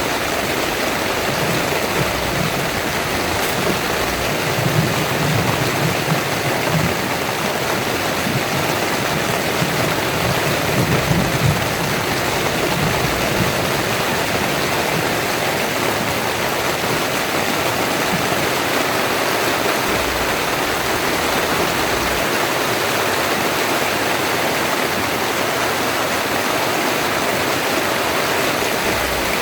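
Heavy rain pouring steadily. Two low rumbling swells come in about five and about eleven seconds in.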